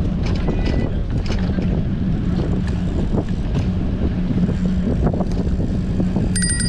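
Strong wind buffeting the microphone of a bicycle-mounted action camera while riding, a steady loud rumble with a low hum underneath. A brief high ringing tone sounds near the end.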